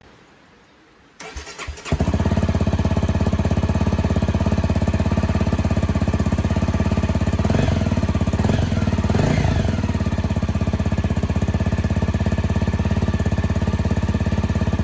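Honda CRF250 Rally's single-cylinder engine, breathing through an LCI stainless muffler with a carbon end cap, cranked on the starter and catching after under a second, then idling with an even, steady beat. A few short throttle revs come a few seconds in.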